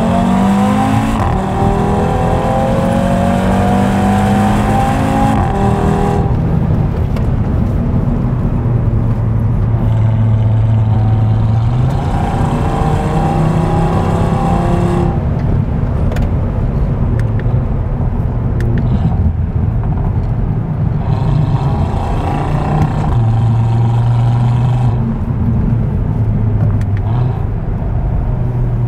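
Audi TT RS 8S's 2.5-litre turbocharged five-cylinder engine accelerating from low revs with both exhaust flaps held open in Dynamic mode. Its pitch climbs steeply over the first few seconds. It then runs at steadier revs, with further rises a third of the way through and again past the middle.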